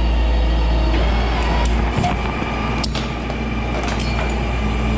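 Tow truck engine running steadily with a low rumble, with a couple of sharp metallic clicks about two and three seconds in.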